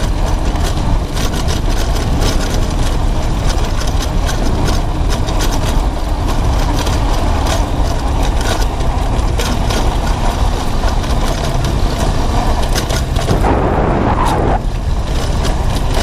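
Romet ADV 150 motorcycle's small single-cylinder engine running steadily under way, mixed with heavy wind buffeting on the microphone.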